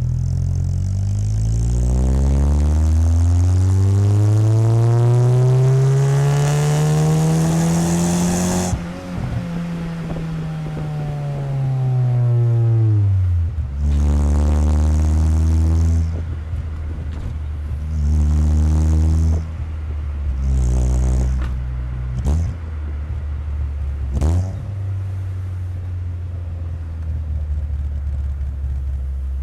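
Exhaust note of a Corsa Wind 1.0 inline-four with an aftermarket JK muffler, heard right at the tailpipe while driving: the engine pulls with a steadily rising pitch for about eight seconds, then drops off as the throttle is lifted. After that it settles lower, with a few short bursts of throttle and two quick blips.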